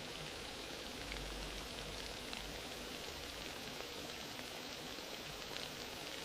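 Fireplace fire crackling: a steady hiss with scattered small pops.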